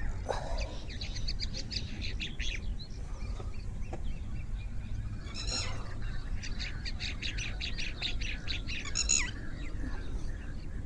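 Birds chirping: rapid series of short, high chirps in two runs of a few seconds each, over a steady low rumble.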